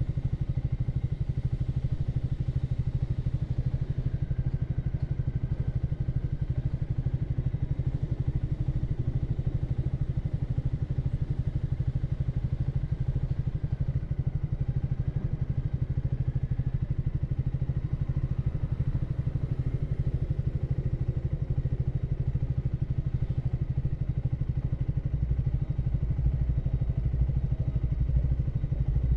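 Triumph Speed 400's single-cylinder engine running steadily, with a deeper rumble building near the end.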